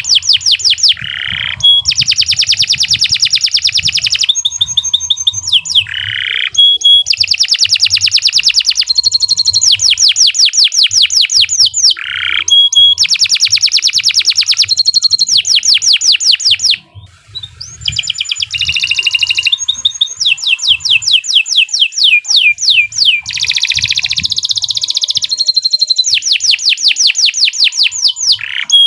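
Domestic canary singing a long, loud, almost unbroken song of rapid trills and rolls, with a brief break about seventeen seconds in.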